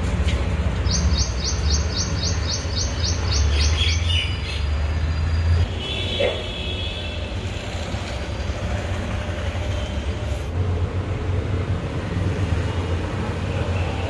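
Birds chirping: a quick run of about ten high chirps, roughly four a second, in the first few seconds, then a few scattered calls, over a steady low rumble.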